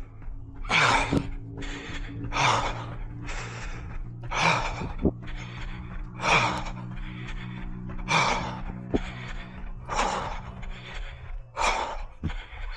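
A runner breathing hard and rhythmically mid-run: a loud breathy exhale about every two seconds, with lighter breaths between.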